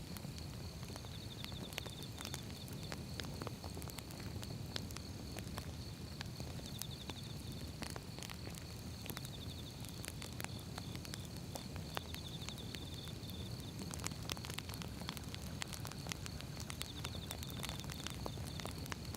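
Wood fire burning: firewood crackling with many irregular sharp pops over a low, steady rumble of flames. A steady high tone and short high trills, coming every few seconds, sit faintly in the background.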